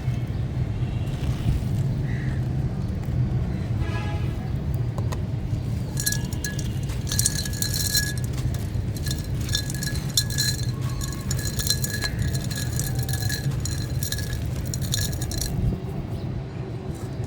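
Brittle stony chunks being crumbled, giving dense crunchy crackles and clinks. The crackling starts about a third of the way in and stops shortly before the end, over a steady low rumble.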